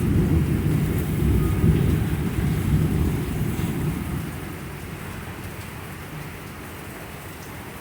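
Thunder rumbling low over a heavy downpour. The rumble fades after about four seconds, leaving the steady hiss of the rain.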